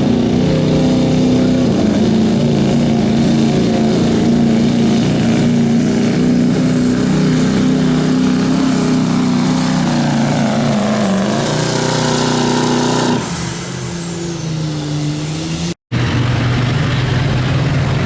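Stock diesel pickup engine running hard at high revs under load while pulling a sled, then backing off about thirteen seconds in to a lower, steadier run as a high whine falls away.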